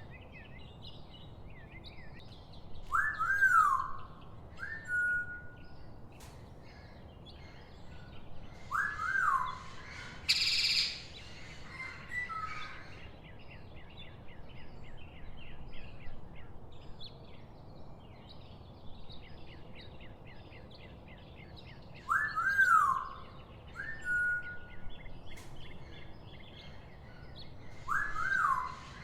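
Birds calling: loud whistled notes that sweep up and back down, one ending in a held whistle, a harsh screech about ten seconds in, then a fast chattering trill. The same run of calls comes round again about nineteen seconds later, as in a looped soundtrack.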